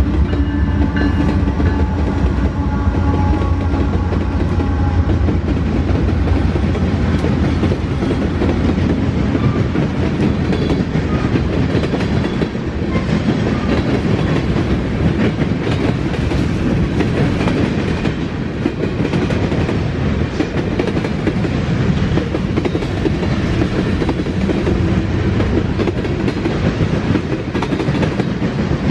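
Freight train passing close by: a continuous rumble and clatter of wheels over the rails, with heavy diesel locomotive drone strongest in the first several seconds. A horn chord dies away at the start.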